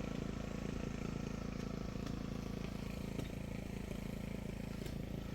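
An engine running steadily at a constant speed, with a few faint ticks over it.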